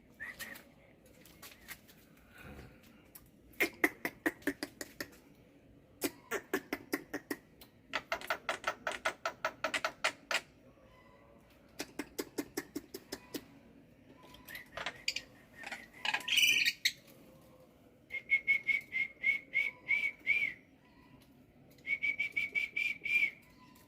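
Black-winged myna (jalak putih) in full song: bursts of rapid, rattling chatter, each a second or two long, with pauses between, and in the last few seconds runs of quick repeated whistled notes.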